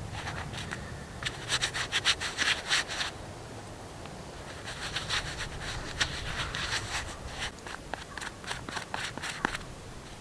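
Knife blade carving wood: quick scraping strokes in two runs, the first about a second in and the second from about five seconds in to near the end.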